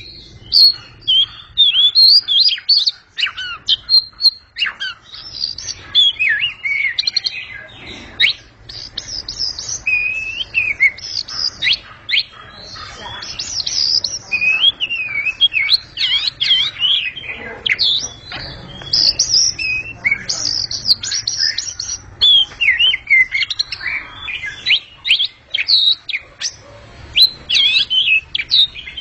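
Oriental magpie-robin (kacer) singing a loud, varied song of rapid whistles, slurs and chirps, phrase after phrase with hardly a pause.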